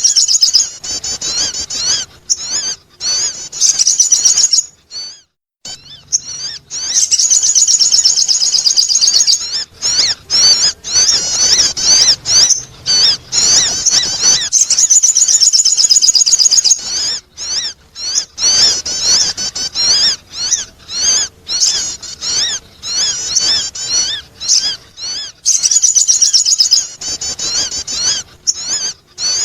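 Sogon bird calling: rapid, high-pitched twittering of quickly rising and falling notes, in runs of a few seconds broken by short pauses.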